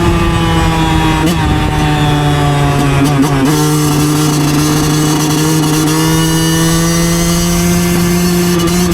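2009 Yamaha YZ125 two-stroke single-cylinder dirt bike engine running under way. Its pitch eases down over the first three seconds, jumps back up about three and a half seconds in, then climbs slowly.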